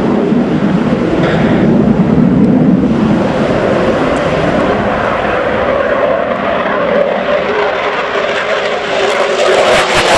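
An F-15 fighter's twin jet engines at full power on its takeoff run, a loud continuous roar whose pitch slowly rises, with more hiss building toward the end.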